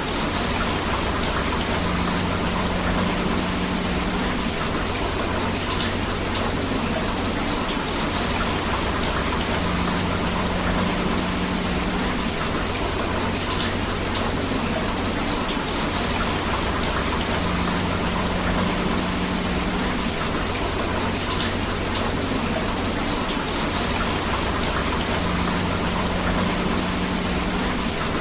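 Steady rain mixed with rushing river water, a dense, even hiss. A low hum rises out of it for a couple of seconds about every eight seconds, in a repeating pattern.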